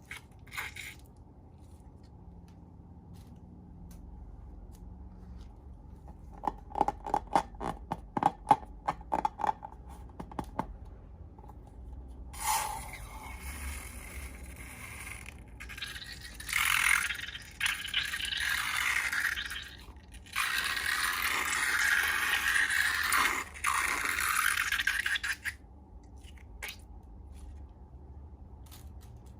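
Slime being worked by hand: a quick run of clicking pops, then long stretches of scraping, hissing squelch.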